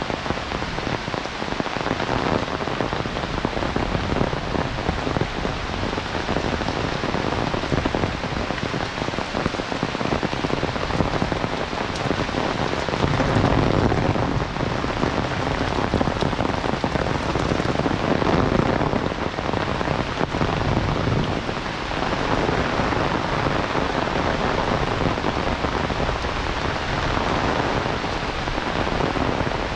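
Heavy rain falling steadily: a dense, even hiss that swells louder twice for a few seconds around the middle.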